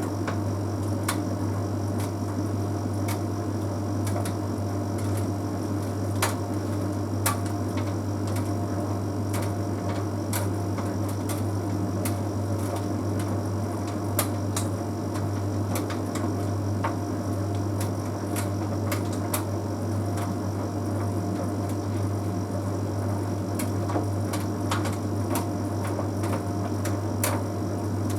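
Bosch Series 6 heat pump tumble dryer running with a steady low hum. Irregular light clicks come from the load tumbling in the drum as it dries on past cupboard dry toward Cupboard Dry Plus.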